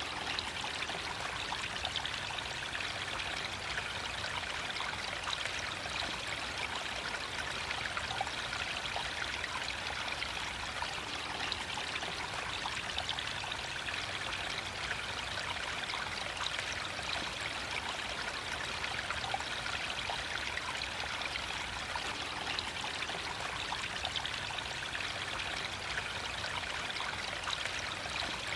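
Water flowing and splashing over mossy rocks in a small stream, a steady rushing with fine trickling detail.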